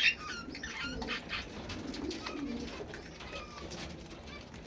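Aviary birds calling: pigeons cooing low and softly while budgerigars and parrots keep up a stream of short, high chirps, with one loud sharp call right at the start.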